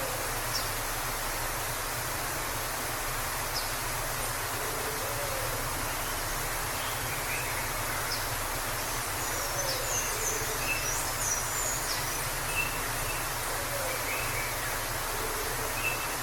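Steady rushing of a forest waterfall, with birds chirping faintly over it and a short flurry of high chirps a little past the middle.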